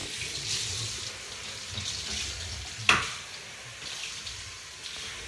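Water running and splashing, with one sharp knock about three seconds in.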